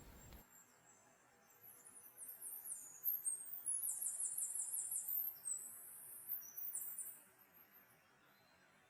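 Faint, very high-pitched chirping: quick series of short repeated notes that come in after about two seconds and stop about seven seconds in.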